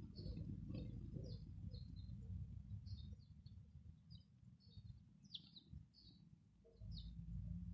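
Small birds chirping, many short high notes at irregular intervals, over a low rumble that fades in the middle and comes back near the end.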